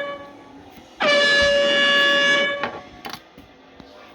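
Air horn sound effect: one steady, blaring blast lasting about a second and a half, starting about a second in, with the end of an identical blast fading out at the start.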